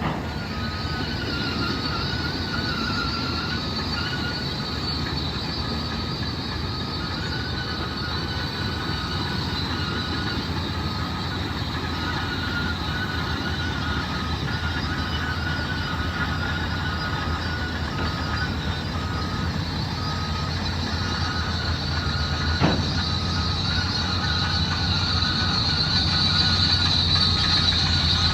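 Motor grader working: steady diesel machine rumble with a high metallic whine and a faint tone repeating roughly every three quarters of a second. A single sharp click sounds once late on, and the machine grows a little louder near the end.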